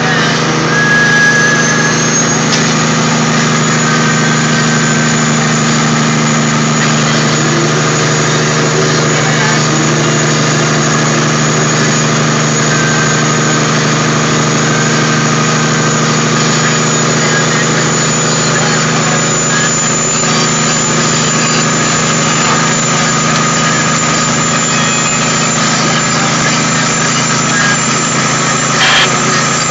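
Caterpillar 3406E inline-six diesel of a Kenworth W900A log truck running at a steady, even pitch, with a constant hiss of noise above it.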